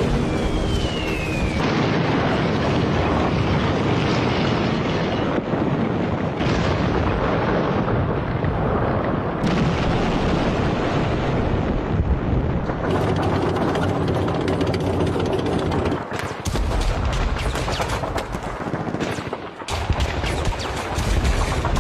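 Battlefield din of gunfire and explosions: a continuous heavy rumble of blasts, with rapid, densely packed shots in the last third.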